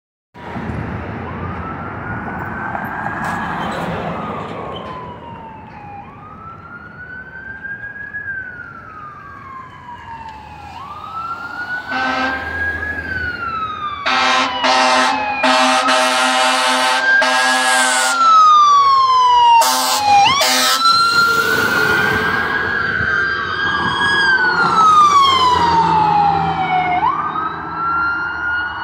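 Fire apparatus siren wailing in slow cycles, each a quick rise then a longer fall, about every three and a half seconds. Air horn blasts sound over it from about twelve to eighteen seconds in, and a second siren overlaps it in the last third as the two units pass.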